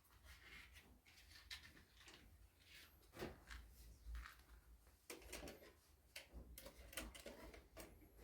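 Near silence, broken by faint scattered clicks and knocks and, twice, a faint high chirp.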